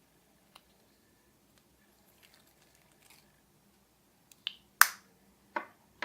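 Glossy slime being pressed and worked by hand, giving sharp, sticky pops and clicks: a few faint clicks and crackles, then a handful of louder pops near the end, the loudest about five seconds in.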